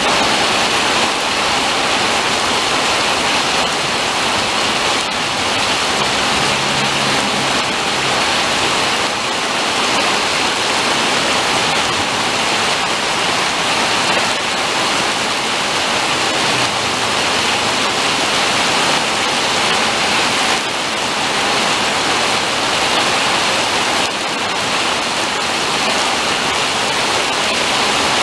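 Rain pouring down steadily, a dense even hiss of water striking the street and surfaces.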